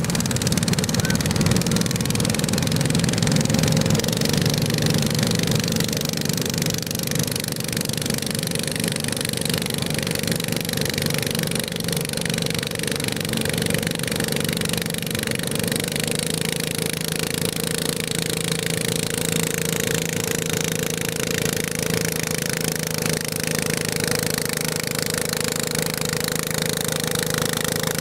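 Garden tractor engine running steadily at a constant pitch, slightly louder in the first few seconds.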